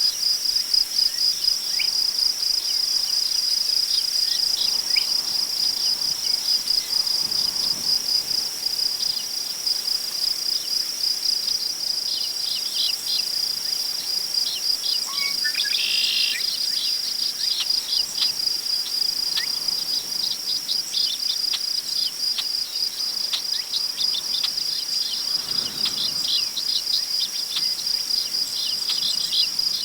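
Crickets chirping in a steady high-pitched trill, with scattered bird calls that cluster around the middle. A faint rustle of wind in tall prairie grass swells twice.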